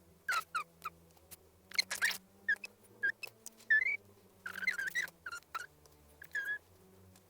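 A small bird chirping: short, irregular high chirps, some gliding up in pitch, over faint low tones.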